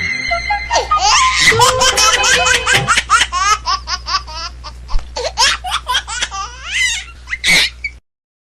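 High-pitched laughter in rapid ha-ha-ha pulses that cuts off suddenly near the end.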